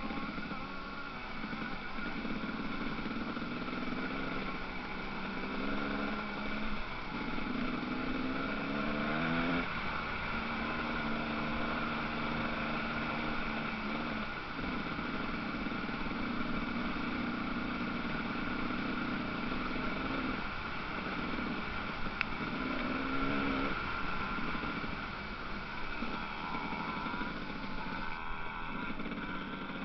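Motocross dirt bike engines revving hard on a track. The engine pitch climbs in steps and drops back every few seconds as the riders work the throttle and shift gears.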